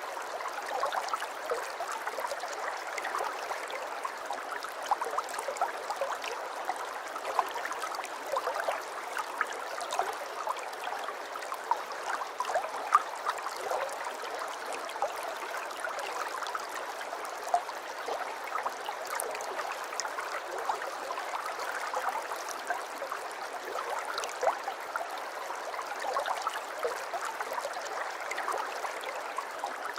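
Aquarium water trickling and bubbling continuously: a steady wash dotted with many small pops and drips, without pause.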